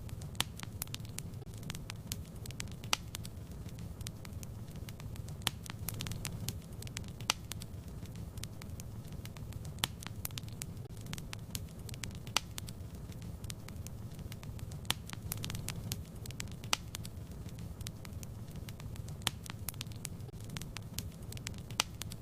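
Wood fire in a fireplace crackling: many small snaps and a louder pop every couple of seconds, over a steady low rumble of the flames.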